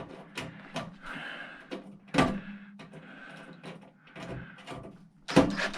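Scattered clicks, knocks and scrapes of hand tools and metal parts being handled on a workbench, with one sharper knock about two seconds in and a denser clatter near the end.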